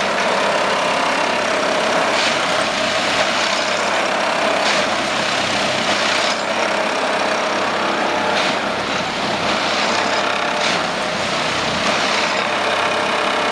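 Plasser & Theurer Duomatic 08-32 ballast tamper working: a steady loud diesel-and-machinery din with the vibrating tamping tools, and a short sharp burst about every two seconds as it goes through its tamping cycles.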